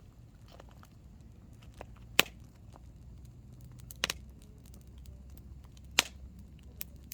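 Hardwood campfire burning, with a steady low rumble of flame and frequent small crackles. Three loud pops of bursting wood come about two, four and six seconds in; the middle one is a quick double pop.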